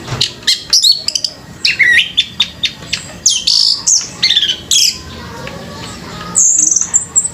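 Orange-headed thrush (anis merah) singing loudly in a fast, varied run of sharp chips and whistled notes that sweep up and down, with a high thin trill near the end.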